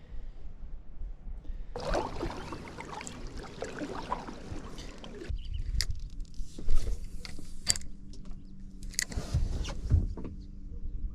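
Fishing gear being handled in a small boat: a stretch of rustling, then several sharp knocks, with a steady hum starting about eight seconds in.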